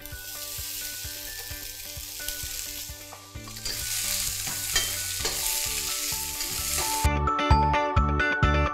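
Shiitake mushrooms and tofu sizzling in hot oil in a wok as they are stir-fried, with background music under them. The sizzling stops abruptly about seven seconds in, and music with a steady beat takes over.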